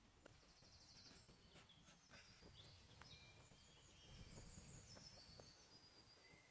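Faint birds chirping outdoors, a few short calls and a brief trill, over a low rumble with scattered faint clicks.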